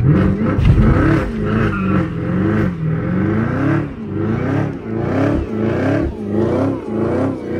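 Camaro ZL1 1LE's supercharged 6.2-litre V8 doing a burnout, heard from inside the cabin. The revs shoot up sharply at the start, then swing up and down about twice a second as the rear tyres spin.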